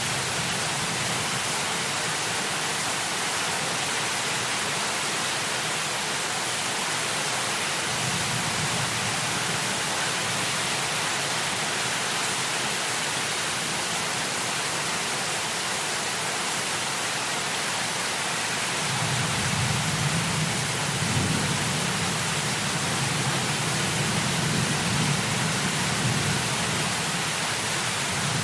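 Heavy rain falling as a steady hiss. A low rumble comes in briefly about a third of the way through and swells again for the last third.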